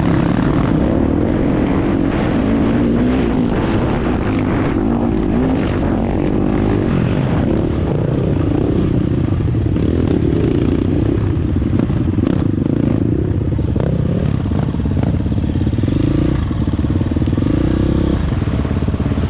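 Dirt bike engine running under way, its pitch rising and falling a little with the throttle, with a few short rattles and clacks over rough ground.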